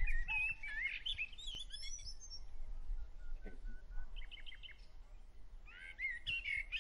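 Small birds chirping: quick warbling calls near the start and again near the end, and a short run of rapid repeated notes in between, over a faint low rumble.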